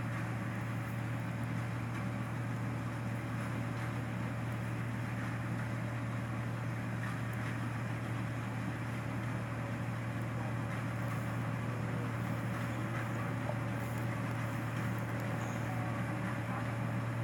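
Rice combine harvester running steadily, a constant low engine drone with no change in pitch or level.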